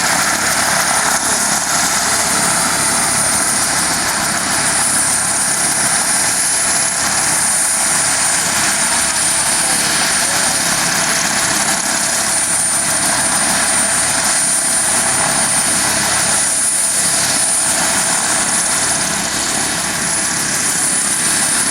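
UH-1 Huey helicopter running steadily: a constant loud rush of turbine and rotor noise with a thin, steady high-pitched whine on top.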